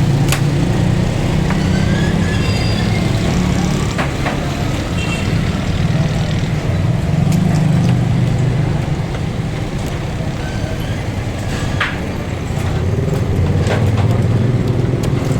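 A steady, loud, low engine-like hum that swells and eases, with a few sharp clicks or knocks over it.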